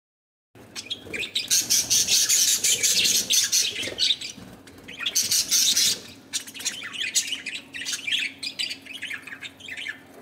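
Budgerigars calling and chattering, starting about half a second in. Two loud stretches of dense, overlapping calls come in the first half, then scattered chirps.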